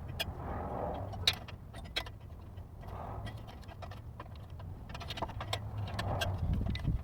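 Scattered metal clinks and taps of wrenches and exhaust hardware being worked under a car, over a steady low hum.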